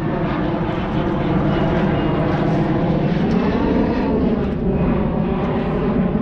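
Airplane passing overhead: a steady, loud engine drone whose pitch slowly bends as it goes by.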